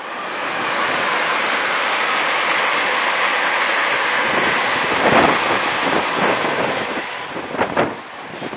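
LNER Azuma high-speed train passing close at speed: a steady loud rush of wheels on rail and air that swells just after the start, holds for several seconds and eases as the train clears. Near the end, short gusts buffet the microphone in its wake.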